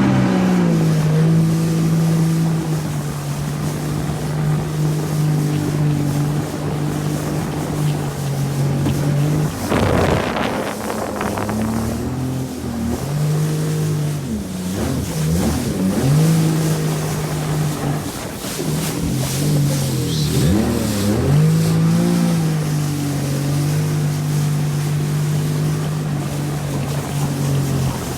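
Jet ski engine running under way, holding a steady pitch with the revs dropping and climbing again a few times in the middle, as the throttle is eased off and opened up. There is a brief rush of noise about ten seconds in.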